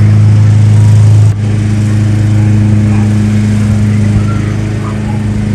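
A loud, steady low hum of a running motor, with a brief dip just over a second in.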